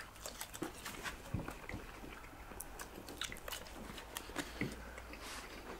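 Two people biting and chewing grilled bratwurst sausages as fast as they can: faint chewing with many small clicks.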